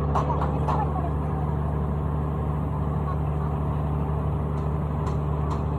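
An engine running steadily at constant speed: an even low drone that does not rise or fall.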